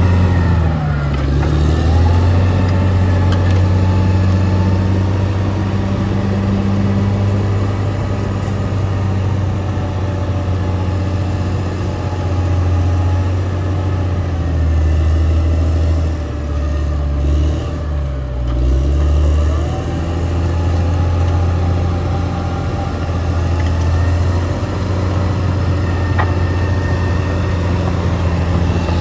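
Caterpillar D6R XL bulldozer's diesel engine running steadily under work. Its speed dips and recovers about a second in, and again briefly past the middle.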